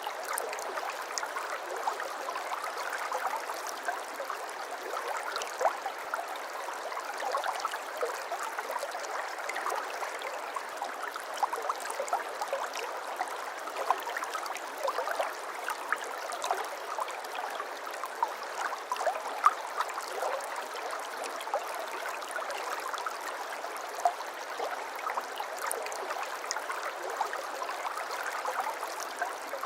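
Small stream of water flowing steadily, a continuous babble dotted with many small gurgles and splashes.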